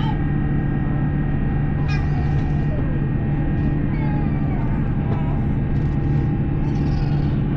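Steady cabin noise inside a China Airlines Airbus A350: an even drone of engines and air conditioning with constant hum tones. A few faint high-pitched voice-like calls sound over it now and then.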